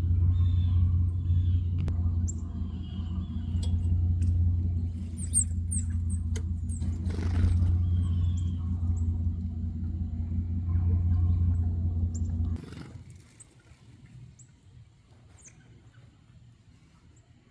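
A motor runs with a steady low hum and cuts off suddenly about twelve seconds in. Small birds chirp over it.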